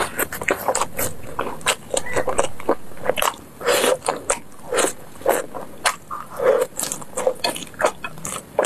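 Close-miked biting and chewing of sauced grilled meat eaten off bamboo skewers: a quick, uneven run of wet smacks, clicks and squelches from the mouth, several a second.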